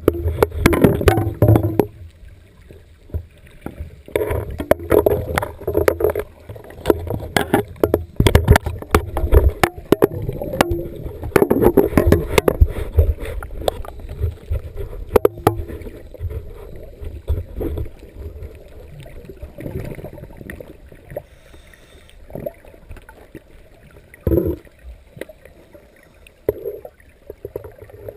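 Water gurgling and churning around a dive camera in irregular bursts, with scattered knocks. It settles down in the last several seconds, with only a couple of short bursts.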